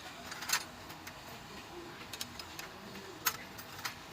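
A few sharp metallic clicks and taps from hand tools and engine parts being handled during engine repair work, the loudest about half a second in, over a low steady background rumble.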